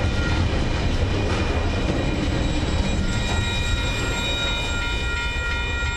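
Tail end of a container freight train rolling over a level crossing and rumbling away. From about three seconds in, a steady high ringing from the level crossing alarm stands out more clearly above the fading rumble.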